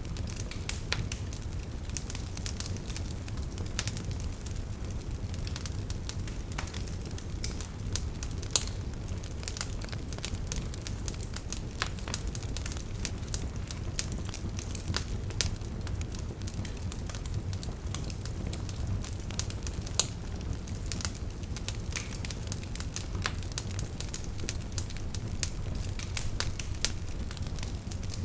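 Wood campfire burning, with a steady low rumble and irregular sharp crackles and pops throughout; a couple of louder pops stand out.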